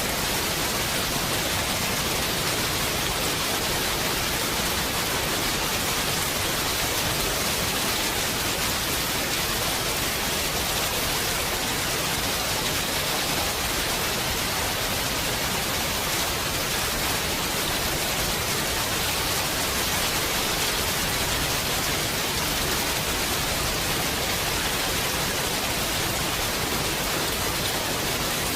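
Heavy rain falling steadily, an even, unbroken hiss with no thunderclaps.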